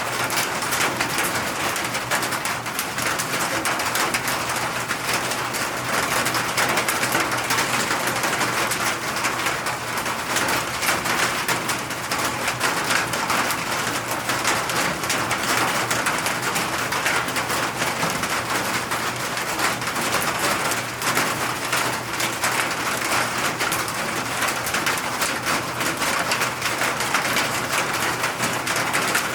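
Steady rain falling, a dense even patter of drops, with a faint low hum underneath.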